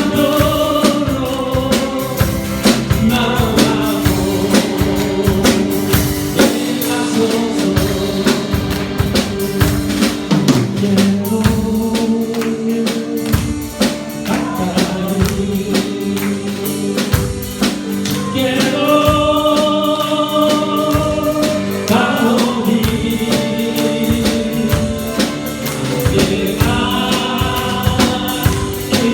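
Church praise singing: a group of voices singing a worship song with instrumental accompaniment and a steady beat.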